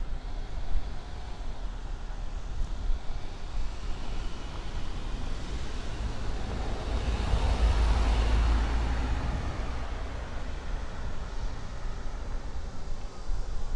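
Steady low wind rumble on the microphone of a moving rider, with a vehicle passing that swells to a peak about eight seconds in and then fades.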